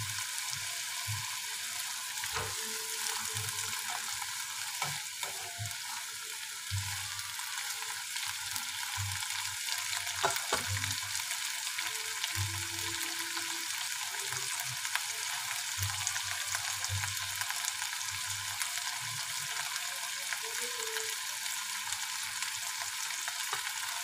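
Garlic spinach sautéing in a nonstick frying pan over a gas flame: a steady sizzle of frying, with scattered soft low thuds.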